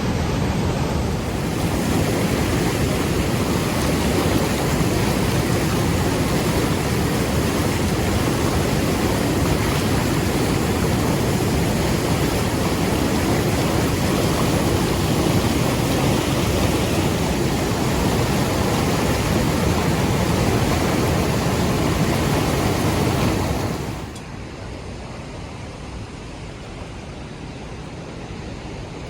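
Large waterfall rushing, a loud steady roar of falling water that drops suddenly to a quieter rush near the end.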